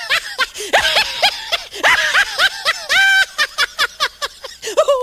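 A person laughing hard in quick, high-pitched bursts of several short 'ha' sounds a second, with a held squealing note about three seconds in: a meme laughing sound effect.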